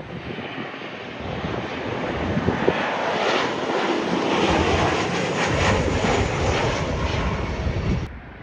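Jet airliner flying low overhead: a rushing engine noise that builds, holds at its loudest for a few seconds, then cuts off suddenly near the end.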